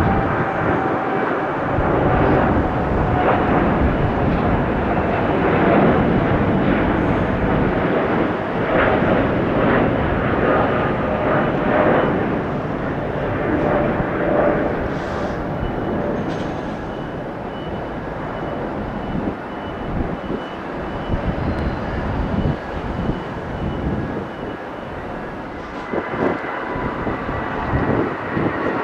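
Jet airliner's engines, a loud steady rush with a faint whine through it, easing off past the middle and rising again near the end.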